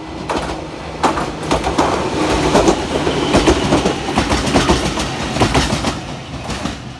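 Toyama Chiho Railway 14760-series electric train passing close at high speed, its wheels clattering rapidly over the rail joints with a heavy rumble. The clatter builds about a second in and eases off near the end.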